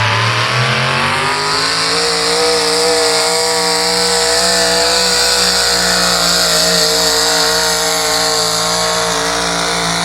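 A competition pulling vehicle's engine under full throttle during a pull. It winds up in pitch over the first couple of seconds, then holds at high revs, loud and steady.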